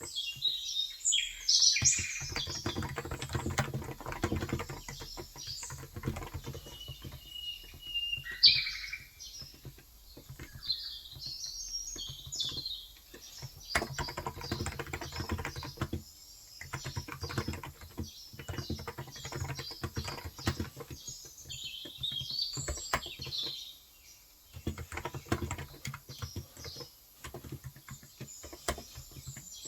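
Typing on a Cox Endeavor electro-capacitive (non-contact) keyboard with 35 g switches, in runs of rapid key presses broken by short pauses, while birds chirp throughout, with a brief whistled note about a quarter of the way in.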